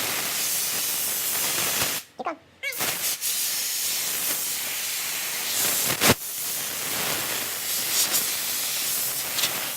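Compressed air hissing steadily from an air-hose blow gun as it blows dust out of an engine air filter. The hiss cuts off briefly about two seconds in, and a sharp knock sounds about six seconds in.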